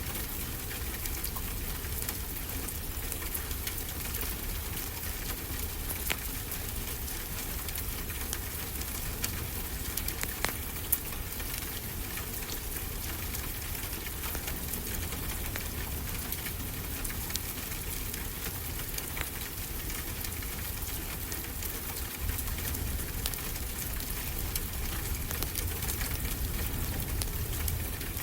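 Steady rain falling, with a wood fire crackling: scattered sharp pops over the even sound of the rain.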